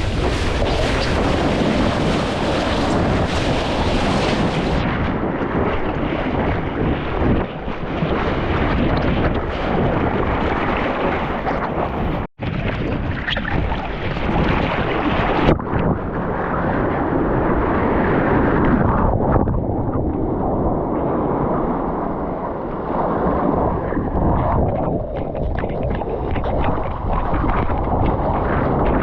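Wind buffeting the microphone over the wash of surf, a steady rough rushing with a momentary dropout about twelve seconds in.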